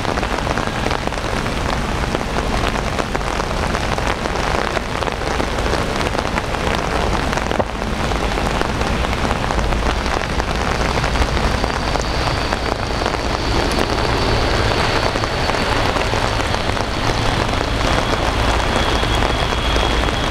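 Steady rain falling, an even hiss with a low rumble underneath. A faint high steady whine comes in around the middle and gives way to a slightly lower one near the end.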